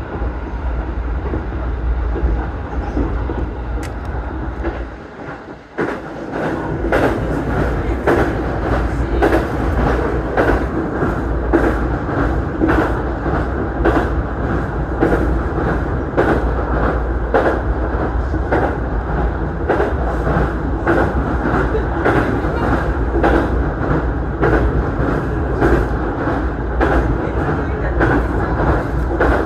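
Electric commuter train running at speed, heard from inside the car: a steady low rumble, and from about six seconds in a regular clacking of the wheels over rail joints, after a brief dip in level.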